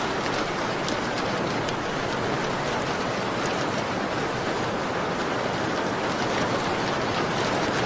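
Steady rain against a window, an even hiss with scattered faint ticks throughout.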